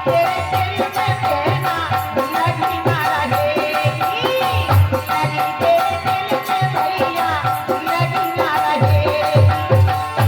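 Indian folk song accompaniment: hand-drum strokes in a steady beat under a melody, with one note held throughout.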